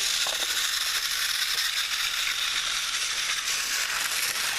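Motorised TrackMaster toy trains running on plastic track, a steady rattling whir.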